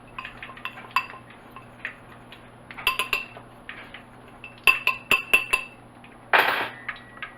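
Utensil clinking and tapping against a bowl while stirring flour and cornstarch together: scattered taps, with quick runs of clinks about three and five seconds in, and a brief louder burst of noise near the end.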